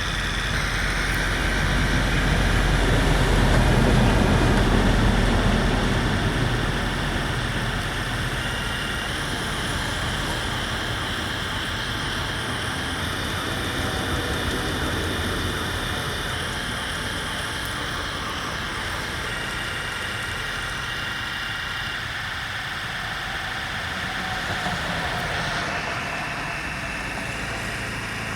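Motors and gears of remote-control construction models running continuously, louder for a few seconds near the start.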